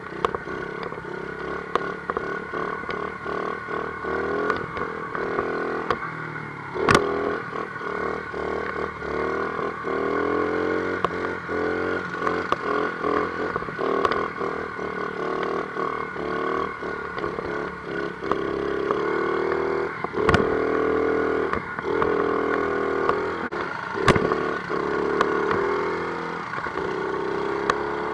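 50cc dirt bike engine revving up and down as it is ridden over rough ground, with frequent knocks and rattles as the bike jolts over bumps. A few sharper, louder knocks stand out, about a third of the way in and twice more later on.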